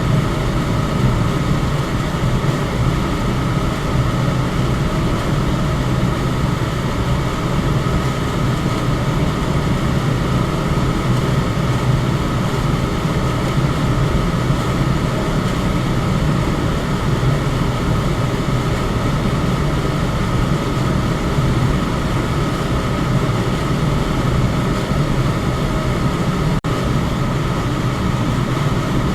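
Electric fan running steadily: a continuous whoosh of moving air, heaviest in the low range, with a faint steady hum. There is a momentary dropout near the end.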